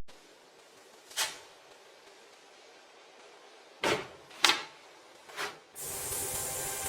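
Music cuts off, leaving near quiet broken by four short knocks or clicks, and a steady noise comes in near the end.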